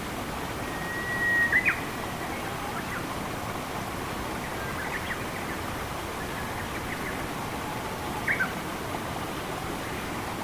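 Steady flowing water in a forest, with songbirds calling over it: a long whistled note ending in a couple of sharp chirps about a second and a half in, scattered chirps in the middle, and two more loud chirps about eight seconds in.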